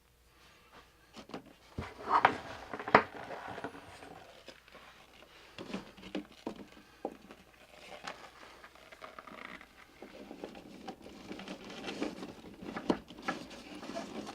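Hands handling parts: scattered clicks, light knocks and rustling, loudest about two and three seconds in and again near the end.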